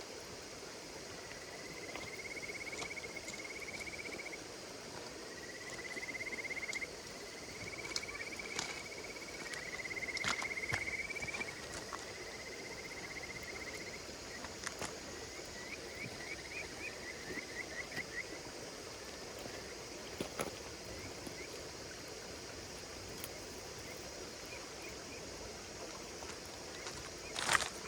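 Insects calling in pulsed trills, a run of phrases for the first half that breaks into short chirp groups, over a crackling campfire with scattered sharp pops. A louder rustling knock comes near the end.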